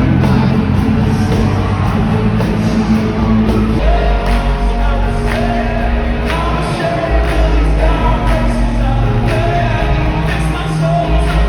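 Loud live rock music with singing over heavy bass and a steady beat, with shouts and whoops from a concert crowd.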